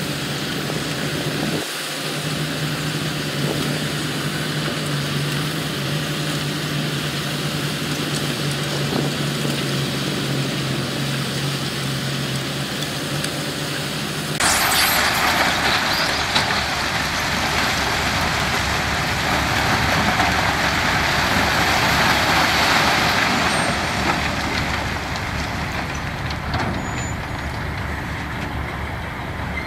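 Heavy construction machinery engines running with a steady low hum. About halfway through, the sound changes suddenly to a louder, hissing rumble.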